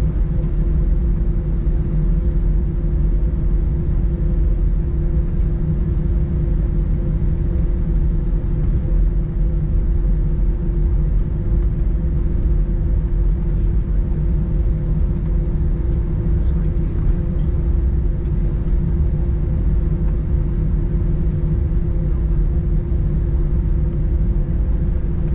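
Airbus A321 cabin noise while taxiing after landing: a steady engine rumble with a constant low hum running through it.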